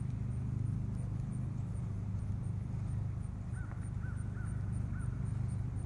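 Steady low rumble, with a distant bird giving four short calls in quick succession a little past halfway.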